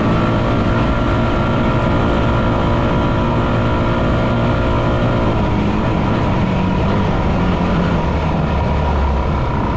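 Yamaha WR250F single-cylinder four-stroke dirt bike engine running while riding. It holds a steady note for about five seconds, then the note breaks up and turns rougher and lower.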